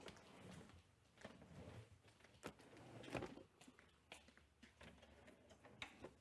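Near silence: quiet room tone with a few faint scattered clicks and rustles.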